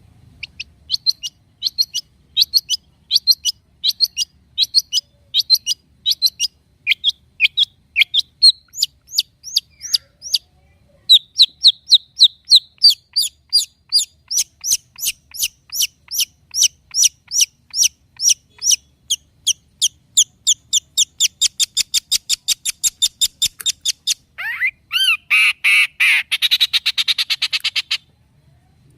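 Long-tailed shrike (cendet) singing: rapid series of sharp, high repeated notes, a short pause about ten seconds in, then a faster unbroken run, ending with a few seconds of harsh rasping chatter.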